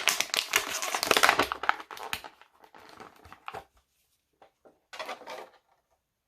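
Action-figure packaging being crinkled and handled: a dense crackling for about two seconds, then scattered clicks and rustles, and one more short burst of crinkling about five seconds in.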